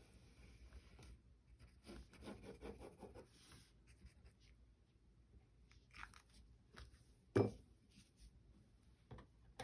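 Paper being handled and folded: faint rustling and crinkling, a few small clicks, and one sharp knock about seven seconds in.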